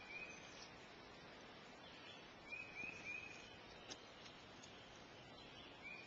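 Faint outdoor ambience in which a bird gives a short, slightly slurred chirp three times, about every three seconds.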